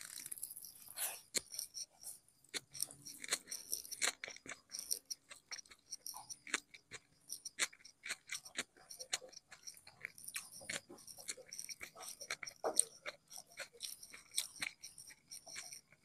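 Close-miked eating sounds: a person chewing and crunching a meal of rice and fish eaten by hand, with many small irregular mouth clicks and smacks.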